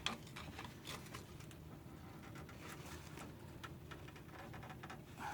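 Faint, scattered light clicks and taps of hand tools working at a pickup's disc brake caliper while the caliper piston is pushed back.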